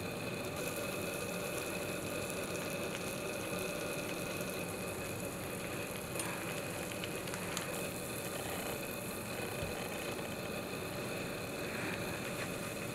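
Low, steady sizzling of a grilled cheese sandwich frying in a cast-iron skillet, with a couple of faint crackles about six and seven and a half seconds in as a knife cuts through the toasted bread.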